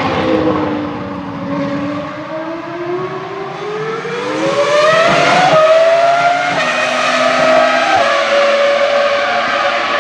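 A Ferrari racing car's engine on track: its pitch sags for the first couple of seconds, then climbs as the car accelerates, and it gets loudest around the middle. The pitch then steps at a few gear changes in the second half.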